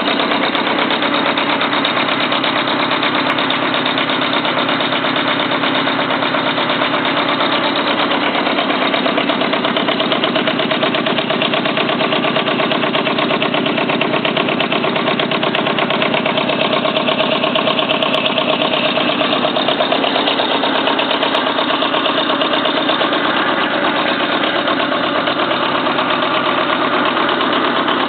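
Kubota engine of a homemade tractor running steadily at an even speed.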